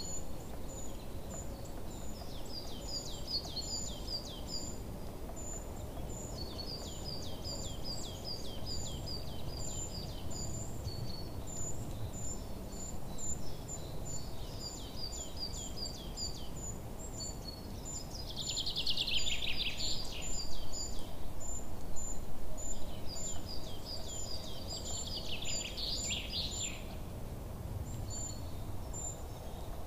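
Birds chirping in repeated bursts of quick downward notes, over a constant high ticking like insects and a steady background hiss. The chirping is loudest in two bursts in the second half.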